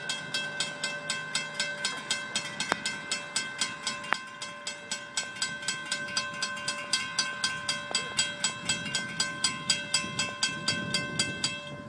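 Railroad grade-crossing bell ringing in a fast, even rhythm of about five strikes a second, with a low rumble building near the end as the train approaches. The ringing cuts off suddenly at the end.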